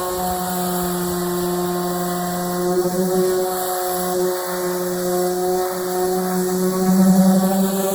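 Electric power sander running steadily with a droning hum, swelling briefly about seven seconds in.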